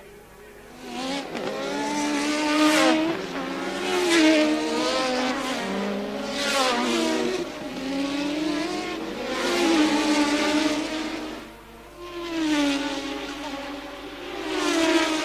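1983 Formula One cars passing at racing speed, one after another, about five or six times. Each engine note swells and then drops in pitch as the car goes by.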